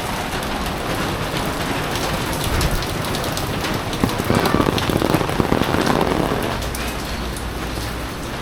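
Heavy typhoon rain falling and pattering on surfaces, growing louder for a couple of seconds in the middle.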